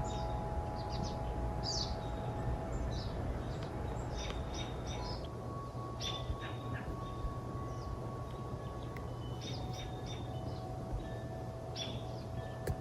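Several wild songbirds chirping and singing in woodland: short, quick chirps and trills come and go throughout, over a steady low background rumble.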